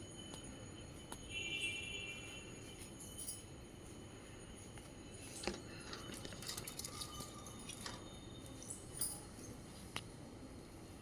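Pet budgies chirping faintly, with one short call about a second and a half in and scattered small clicks and ticks throughout.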